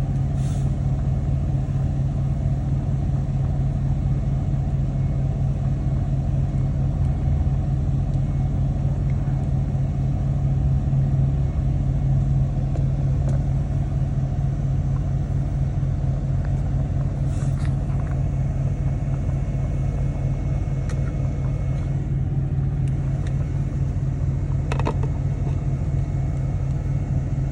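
An engine running steadily at one speed, a low even throb with no revving, with a few light ticks over it.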